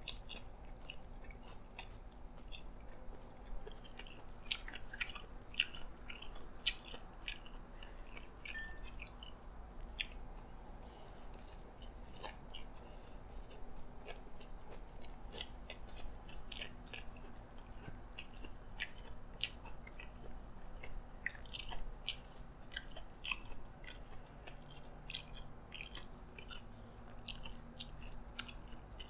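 Close-miked chewing of a mouthful of yee sang raw fish salad: a steady run of many small, sharp mouth clicks and crunches.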